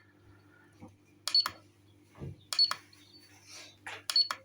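LiPo battery checker giving short high beeps with sharp clicks, three times, as it reads the repaired 3-cell pack; a steady low hum underneath.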